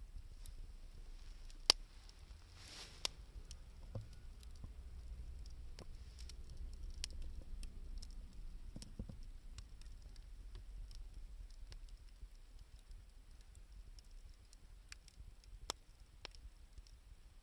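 Wood fire of burning scrap 2×4 lumber and scavenged wood crackling, with scattered sharp pops and snaps over a low rumble.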